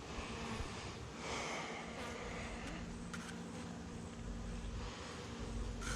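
Honeybees (Saskatraz) buzzing around an opened hive, a steady hum of many bees.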